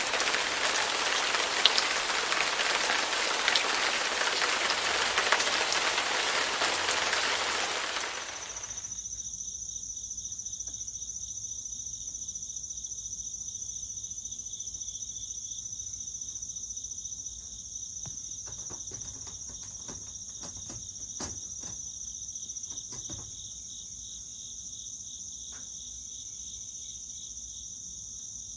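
A loud, even hiss for about eight seconds, which then cuts off, leaving a steady, high insect chorus trilling in two pitches. A few faint clicks come near the middle.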